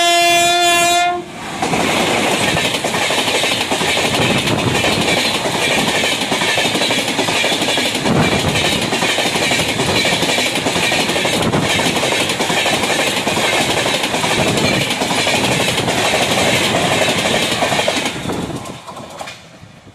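An electric locomotive's horn sounds and cuts off about a second in. A fast passenger train of LHB coaches then rushes past close by, a loud steady rush with wheel clatter on the rails. It fades away near the end.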